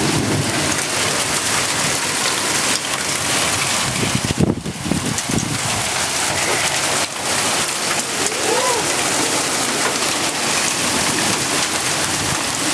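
Heavy rain pouring down in a steady, dense hiss during a thunderstorm. About four and a half seconds in there is a brief low rumble.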